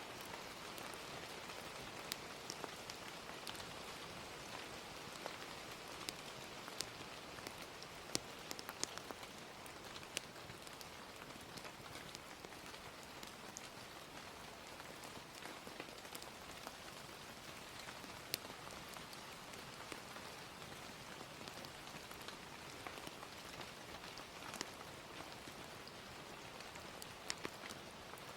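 Steady gentle rain, an even hiss, with scattered sharp pops and crackles of a wood fire. A few pops stand out louder.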